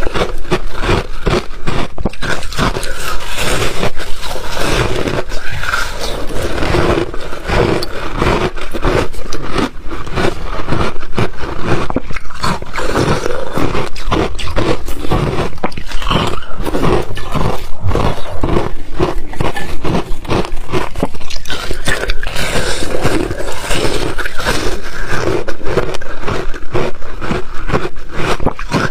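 A person chewing ice up close to the microphone: a dense run of loud, crisp crunches, several a second, with no break.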